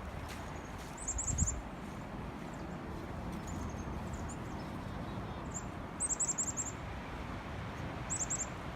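Chickadees calling: short bursts of rapid, very high notes about a second in, twice around five to six and a half seconds, and near the end, over a steady low background rumble. A single low thump about a second and a half in.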